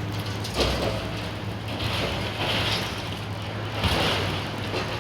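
Demolition excavator's diesel engine running with a steady drone while debris crashes and scrapes as a section of building ceiling is pulled down, with heavy thuds about half a second in and again near four seconds.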